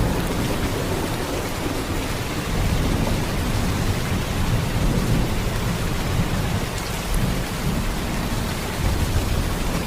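Heavy rain falling in a steady, unbroken downpour, with much of its weight in a deep low rumble.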